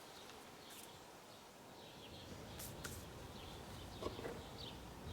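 Faint outdoor birdsong: short, repeated chirps. A few light clicks and soft knocks come in over it, growing a little louder near the end.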